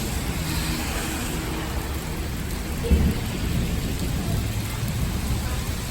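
Steady rain falling, with a low rumble of thunder underneath and a brief louder low thump about three seconds in.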